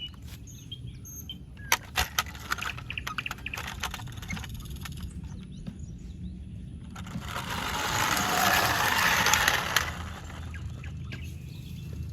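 Handling of toy packaging during an unboxing: scattered sharp clicks and taps for a few seconds, then a rustle about seven seconds in that lasts roughly three seconds.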